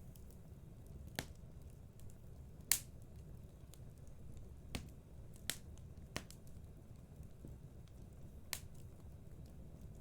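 Fire in a fireplace crackling: about six sharp, separate pops, the loudest nearly three seconds in, over a low steady rumble.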